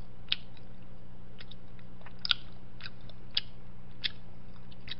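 Close-miked chewing of tteokbokki rice cakes: a string of short, wet mouth clicks, about seven in five seconds, over a steady low hum.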